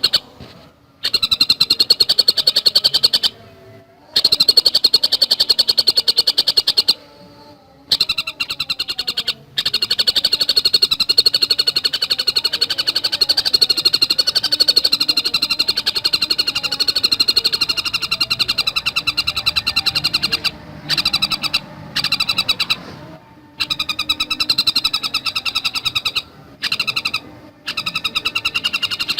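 Tengkek buto singing a fast, dense run of rapid repeated high notes, broken by several short pauses.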